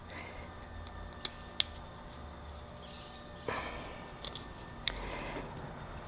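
A few light, sharp clicks and a short rustle from small parts and wires being handled while a toggle switch is wired up.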